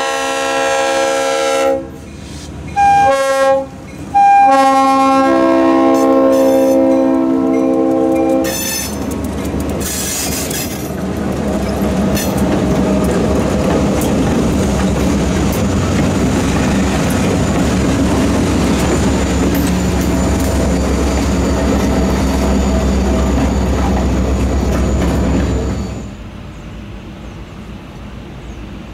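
NCVA diesel locomotive horn sounding a long, a short and a long blast as the train approaches; its chord drops in pitch as the lead unit passes close by. Several diesel locomotives and freight cars then roll past with engines running, wheels clicking over the rail joints, and a thin high squeal in the later part. About 26 seconds in, the sound cuts suddenly to a much quieter distant rumble.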